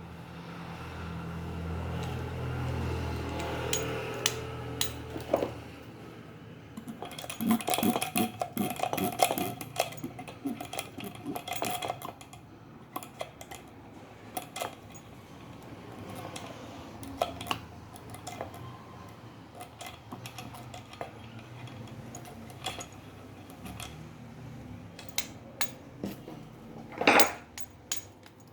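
Metal tools and parts clinking and rattling as they are handled, with a dense stretch of clatter and one loud knock near the end. A low hum fades out over the first few seconds.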